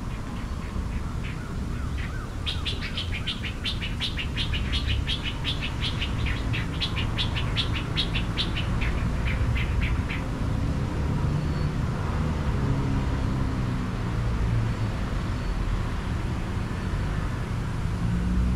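A bird calling a long, rapid run of high chirps that stops about ten seconds in, over a steady low rumble.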